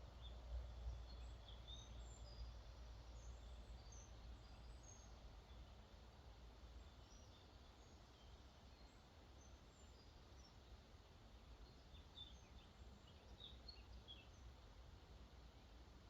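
Faint, steady rush of water where a lake flows out into a river, with a low rumble that is strongest in the first couple of seconds. Scattered small bird chirps and tweets run through it, bunching together a few seconds before the end.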